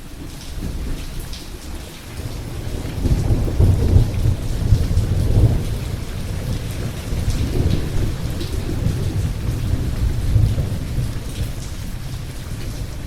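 Thunderstorm: steady rain hiss with a long, low roll of thunder that builds over the first few seconds, is loudest near the middle, and keeps rumbling under the rain.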